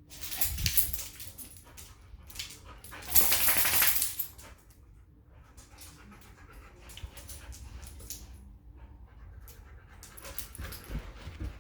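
Dogs at play: two loud, noisy bursts of dog sound, one about half a second in and one around three seconds in, then quieter scattered clicks and rustling.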